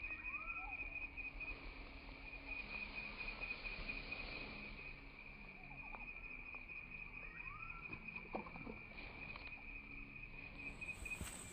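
Outdoor ambience at a reedy canal: a steady, high, pulsing insect trill with a few short rising chirps and faint clicks.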